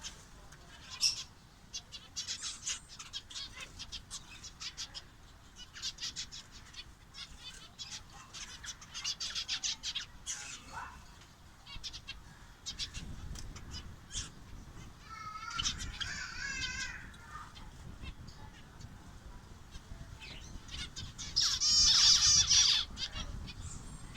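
Captive finches chirping over and over in short high notes, with a warbling song about fifteen seconds in and a louder, faster warbling song near the end.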